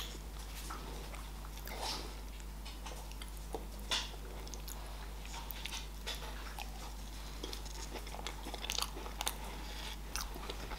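A person biting and chewing a crisp, cookie-like pastry top: faint, scattered crunches, a sharper one about four seconds in and a quick run of them near the end.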